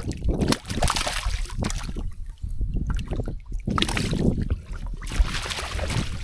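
Water splashing and sloshing in irregular surges while a hooked grunter is fought and brought in.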